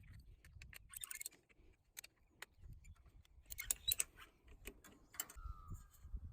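Irregular light clicks and rustles of things being handled, with a cluster of louder clicks a little before four seconds in and a short faint tone just past five seconds.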